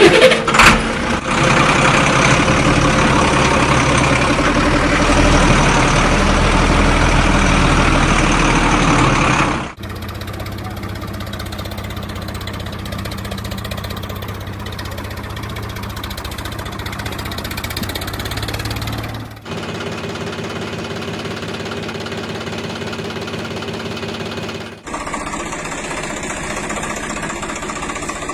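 A vehicle engine running steadily, with a sharp knock right at the start. The sound changes abruptly about ten, nineteen and twenty-five seconds in, quieter after the first change.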